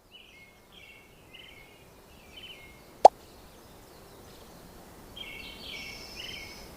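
Small birds chirping in short, quick phrases, in three bouts, over faint outdoor background noise. One sharp, loud pop cuts in about three seconds in.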